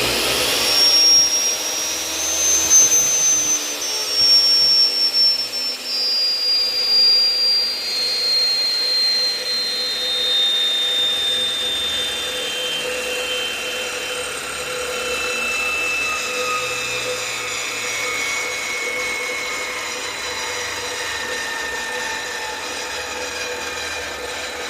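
Table saw spinning a 14-inch blade, oversized for the 10-inch saw and mounted with a reducer washer. It starts up, then coasts down after switch-off with no cutting: a high whine climbs for about two seconds, then falls slowly and steadily as the blade takes a long time to stop.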